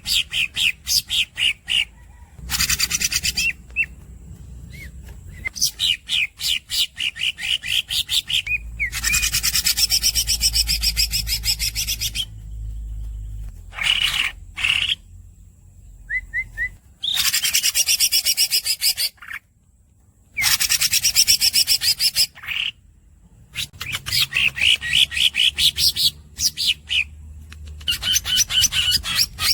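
Green leafbird (cucak ijo) singing: runs of fast, squeaky repeated chirps alternate with long, dense rolling trills of two to three seconds each, with brief pauses between phrases.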